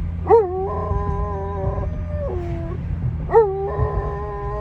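Doberman howling: two long, steady howls, each opening with a quick rise and fall in pitch, one near the start and one about three seconds in, over a steady low hum.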